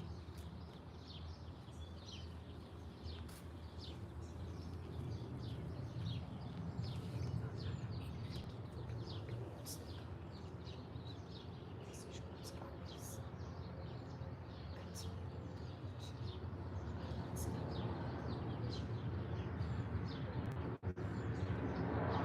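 Small garden birds chirping and tweeting: many short, quick high calls one after another, over a steady low background rumble. The sound drops out for an instant near the end.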